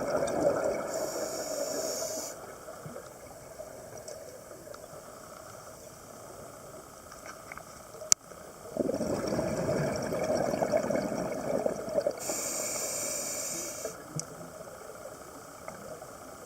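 Scuba diver breathing through a regulator underwater: twice, a long exhalation of bubbling rumbles, each ending in a high hiss of air through the regulator. A single sharp click about eight seconds in.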